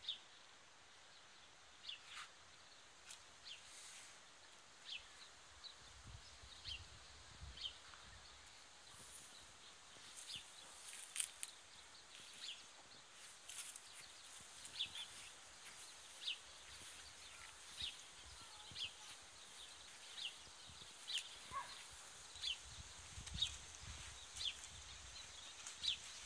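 Faint outdoor ambience with a bird calling over and over: short, high chirps that drop in pitch, about one a second.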